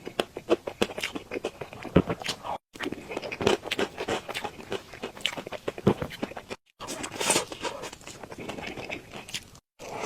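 Close-miked eating sounds: a person chewing cake with a rapid, irregular run of wet mouth clicks and smacks. The sound cuts out abruptly three times for a split second.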